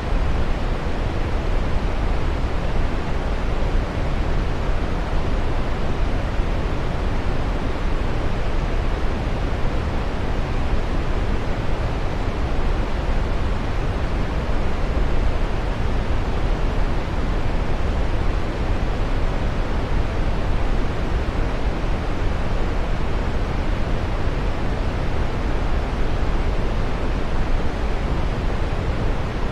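Running water: a steady, even rushing with no splashes or breaks, deep-toned and soft in the highs.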